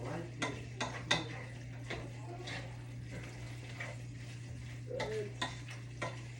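A utensil stirring and scraping pasta and hamburger meat in a pan, with scattered sharp clicks against the pan over a steady low hum.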